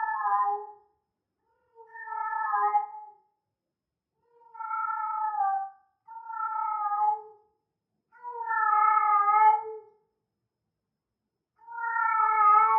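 Female cat in heat calling: a series of long, drawn-out meows, about six in all, one every two seconds or so. Each call lasts a second or more and drops slightly in pitch at its end.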